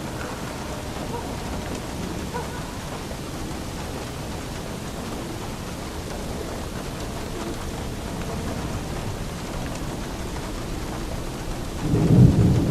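Steady heavy rain falling, with a low rumble of thunder that swells up near the end.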